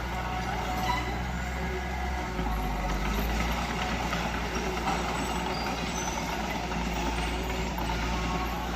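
Diesel engine of heavy earthmoving machinery running steadily, with a continuous low rumble.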